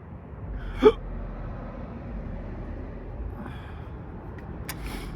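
Steady low background rumble with one short, sharp, loud clink about a second in and a lighter click near the end, from parts being handled while a circuit board is stripped for scrap.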